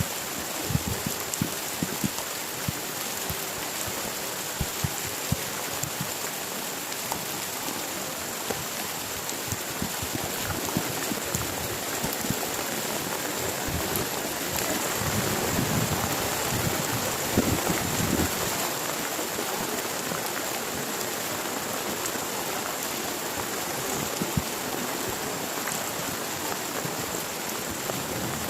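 Heavy rain falling steadily, with many separate drop hits pattering over the hiss, and a brief heavier spell about halfway through.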